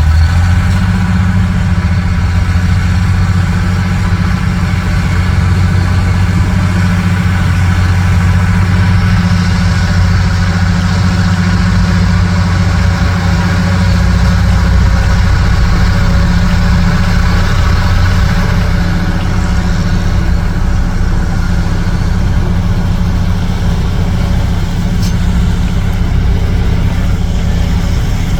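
Dump truck's diesel engine running at a steady speed, a deep even drone that holds without a break.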